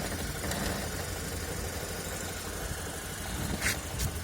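Skoda Octavia A5 engine idling steadily while the steering wheel is turned, with a short creak about three and a half seconds in from a broken suspension coil spring.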